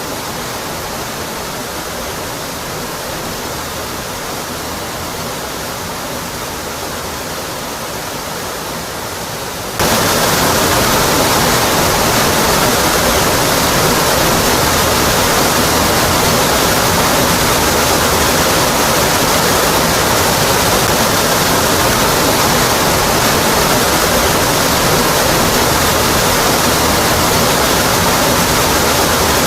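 Waterfall cascading onto rock, a steady, dense rushing. About ten seconds in it abruptly jumps louder and fuller, then holds steady.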